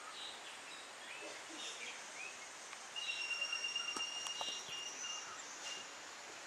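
Faint outdoor ambience with short bird chirps, then a steady high pulsing trill that starts about three seconds in and lasts nearly three seconds. A few faint knocks come about four seconds in.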